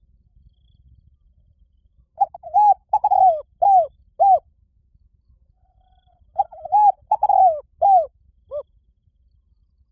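Spotted dove cooing: two phrases of about five short, falling coo notes each, about four seconds apart.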